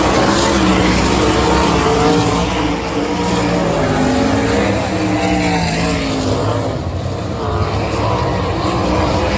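410 sprint car engines at racing speed on a dirt oval, their pitch rising and falling as the cars go through the turns and down the straights.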